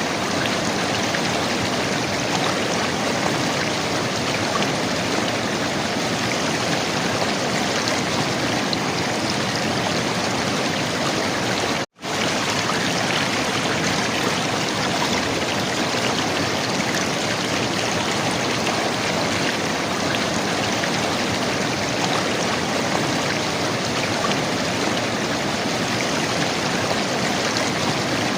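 River water flowing and gurgling steadily, with a momentary silent gap about twelve seconds in.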